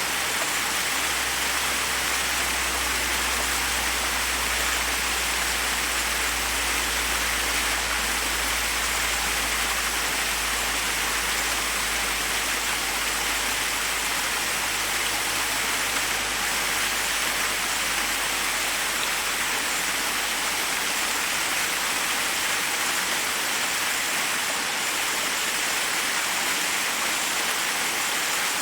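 Forest waterfall rushing steadily, water cascading over rocks in an even, unbroken hiss, with a faint low rumble underneath that fades out about halfway through.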